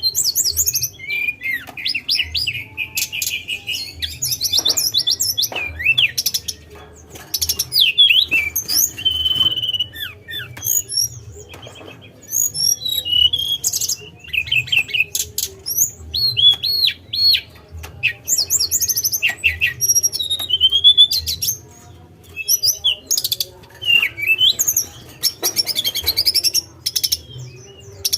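Sunda robin (tledekan gunung) singing a long run of varied short whistled phrases, pitch sweeps and rapid chattering trills, with brief pauses between phrases.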